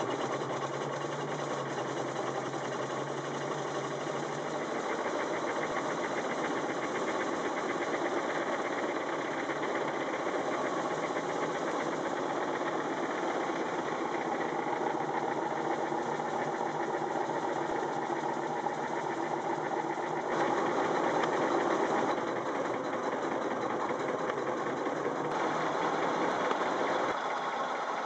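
Antique Buick automobile's engine running as the car drives, a rapid, even mechanical clatter. It gets briefly louder about two-thirds of the way through.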